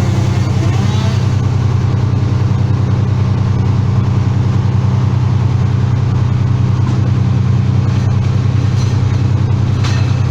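An engine running steadily at an even speed, a low, continuous drone.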